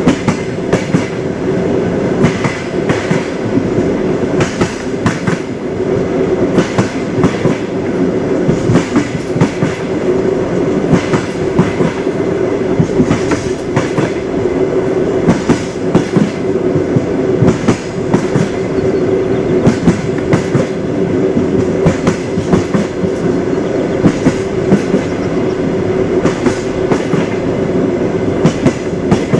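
Train wheels clattering on the rails: a steady running rumble broken by frequent sharp clacks as the wheels cross rail joints.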